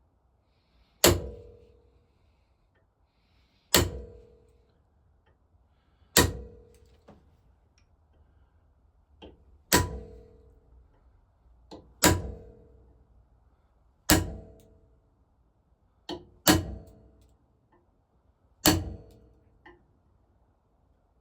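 Hammer striking a hand-held centre punch to mark hole positions in metal ahead of drilling. About eight sharp metallic blows land every two to two and a half seconds, each ringing briefly, and a couple are led in by a lighter tap.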